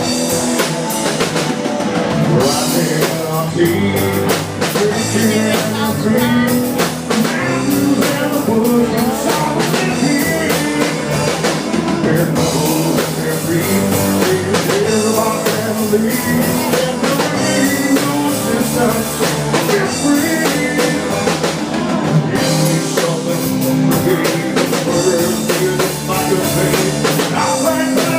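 A band playing a rock song with drum kit and guitars, steady and loud, with no sung words.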